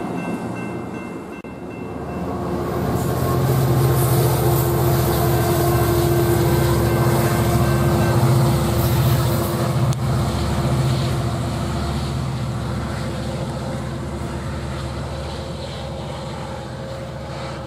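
Amtrak Pacific Surfliner train led by an EMD F59PHI diesel locomotive passing close by. The locomotive's diesel engine runs loudly with a steady whine over it, strongest a few seconds in, then fades gradually as the train moves on.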